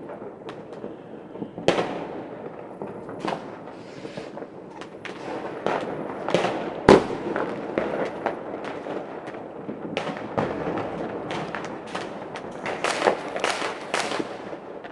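New Year's fireworks and firecrackers going off all around: a constant crackle with many sharp bangs at uneven intervals. The loudest bang comes about seven seconds in.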